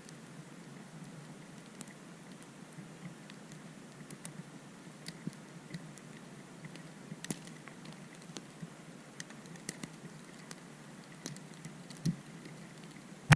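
Snow and ice from a near-freezing blizzard pattering on surfaces: scattered small irregular ticks over a steady hiss, with a louder tap near the end.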